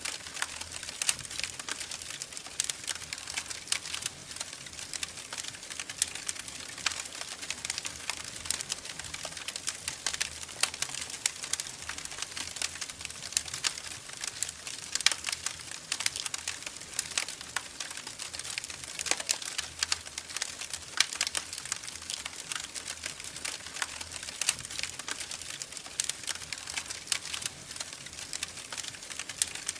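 Fire in a fireplace crackling steadily, with dense, irregular pops and snaps over a soft hiss.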